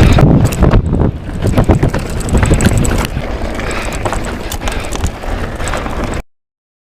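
Mountain bike riding fast down a dirt trail, heard from a bike- or helmet-mounted action camera: wind buffeting the microphone, tyres rumbling, and the bike's chain and frame rattling with irregular knocks over bumps. The sound cuts off suddenly about six seconds in.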